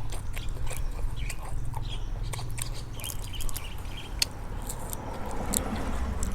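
A person chewing and biting food close to the microphone, with many small sharp clicks.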